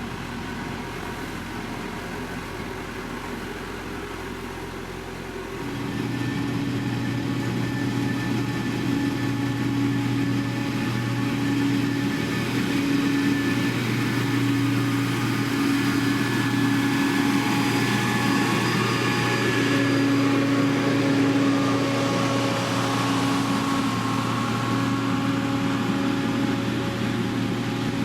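Diesel engine of heavy road-construction machinery running steadily with a low hum, stepping up suddenly in loudness about five and a half seconds in and holding there.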